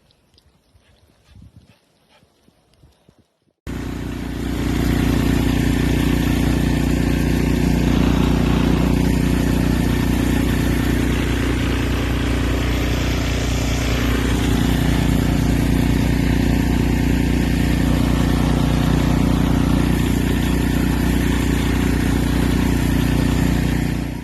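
An engine running steadily, cutting in abruptly a few seconds in and holding an even, unchanging note until near the end.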